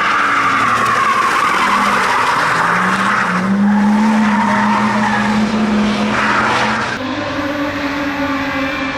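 Drift car sliding with its tyres squealing and its engine held at high revs; the engine note climbs about three seconds in and then holds. About seven seconds in, the sound changes abruptly to a different, steady engine note.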